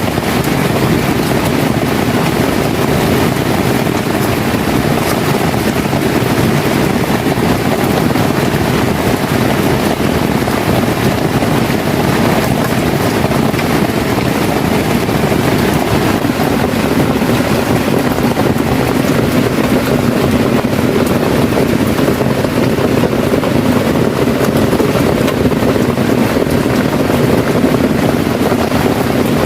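Heavy rain falling, a steady loud wash of noise.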